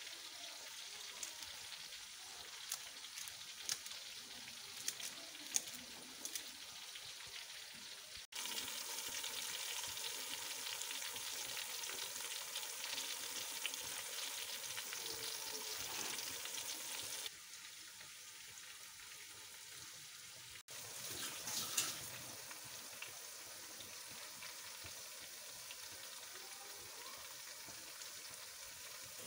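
Browned onion and ginger-garlic masala frying in oil in a cooking pot, a steady sizzle with scattered clicks of a wooden spatula stirring. The level jumps up and drops back abruptly a few times.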